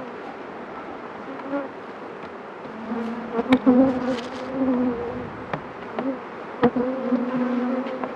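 Honeybees buzzing close around the microphone from an open hive, a hum that swells and fades and wavers in pitch as individual bees fly past. A few sharp knocks sound over the buzzing, the loudest about halfway through.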